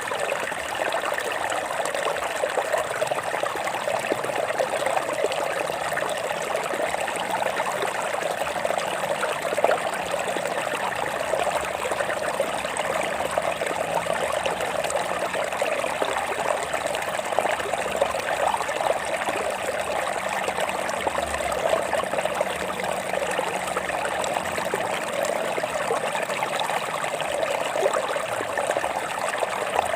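Shallow stream of water running and trickling over rocks, a steady babbling splash.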